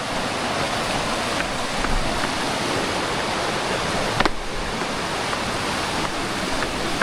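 Mountain creek water rushing steadily over rocks, with a few faint clicks and one sharper click about four seconds in.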